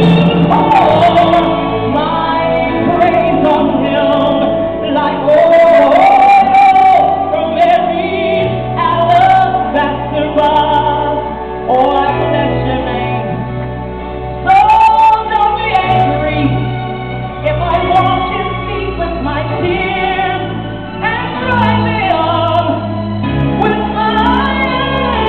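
Live gospel music: a female lead singer sings long, sliding melodic lines over a band. A steady bass line comes in about eight seconds in.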